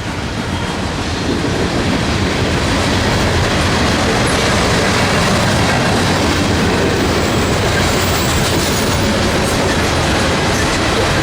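A train rolling past on the tracks: a steady, loud noise of wheels on rail that grows a little over the first couple of seconds and then holds.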